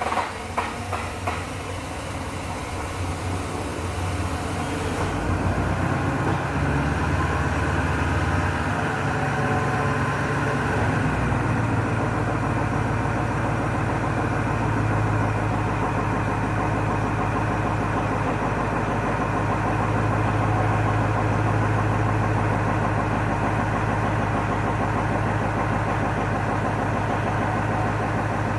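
Cummins 5.0 V8 turbo-diesel in a Nissan Titan XD cold-starting at 7 degrees: the starter's last cranking pulses, then the engine catches and runs unevenly for about ten seconds before settling into a steady idle. The rough start is from too short a glow-plug warm-up, which the owner takes as the cause.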